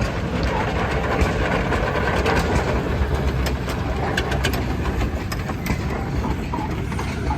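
1899 Frick steam traction engine running in reverse: a steady low rumble with scattered sharp clicks and clanks, thickest around the middle.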